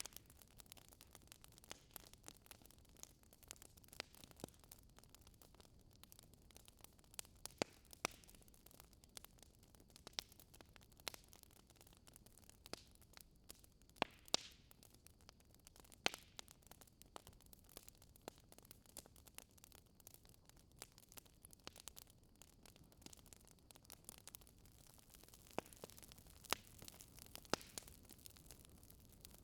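Faint fire crackling in a fireplace: irregular scattered pops and snaps over a soft hiss.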